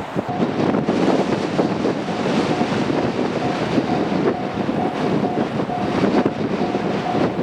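Japanese level-crossing alarm dinging steadily about twice a second over the loud, even rumble of a passing train.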